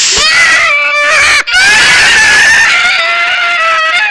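Cat yowling loudly in two long, wavering calls, the first breaking off about a second and a half in and the second held to the end.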